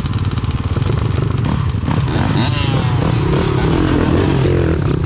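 Small dirt bike engine running under throttle while riding, its pitch shifting up and down about two seconds in.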